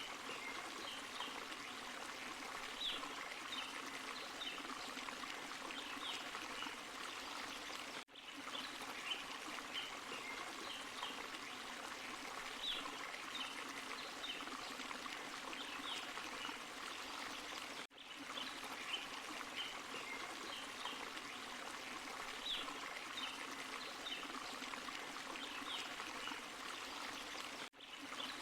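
Small forest waterfall and stream running steadily. The water sound cuts out for a moment three times, about ten seconds apart.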